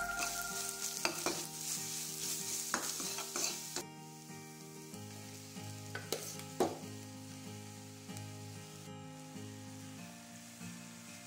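Onions and spices sizzling in a stainless steel kadai while a metal spoon stirs and scrapes the pan, with a few sharp clinks of spoon on steel. The sizzle is strongest for the first few seconds, then drops to a lower frying hiss.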